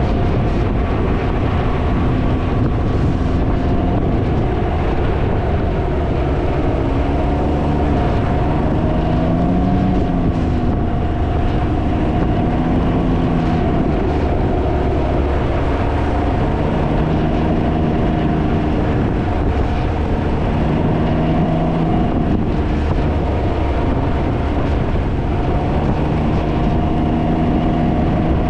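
Heavy wind buffeting on the microphone over the engine of a Can-Am Ryker three-wheeler being ridden, its pitch rising and falling as the speed changes.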